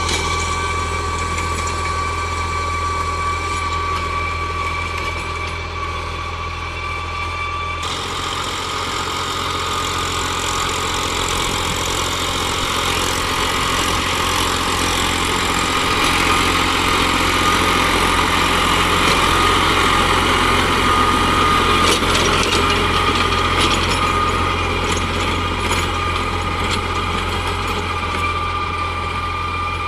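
New Holland 45 hp tractor's diesel engine running steadily. About eight seconds in, the sound abruptly turns noisier, and it grows a little louder for a while near the middle.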